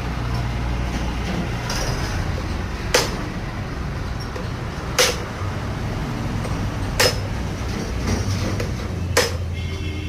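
Hammer striking metal four times, evenly about two seconds apart, each blow ringing briefly, over a steady low hum.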